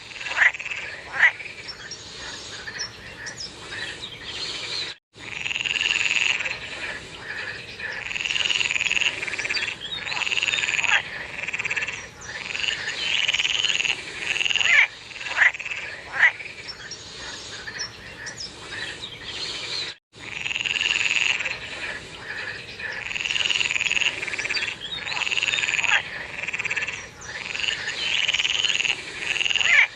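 Chorus of frogs calling, with overlapping croaks repeating about once a second and sharp clicks between them. The sound cuts out for an instant twice.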